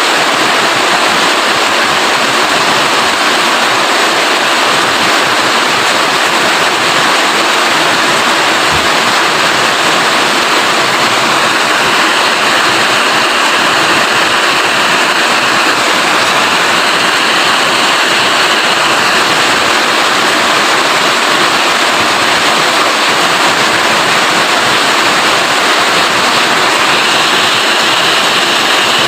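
Steady rain: a dense, even hiss of falling water that does not let up.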